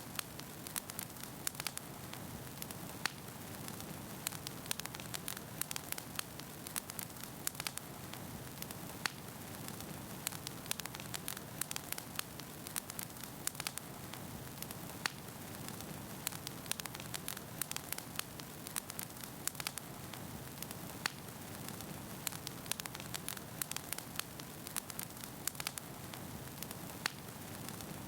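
Wood fire burning in a fireplace: a steady soft hiss with frequent sharp crackles and pops from the burning logs.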